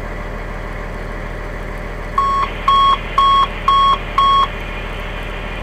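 Five short, evenly spaced electronic beeps, about two a second, from the fire apparatus's radio: an alert tone ahead of a dispatch broadcast. A steady low hum runs underneath.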